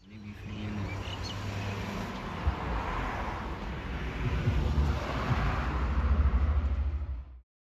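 Outdoor ambience: a steady rush of traffic noise with a low rumble, with a few faint bird chirps in the first second or so. It grows slightly louder toward the end, then cuts off suddenly.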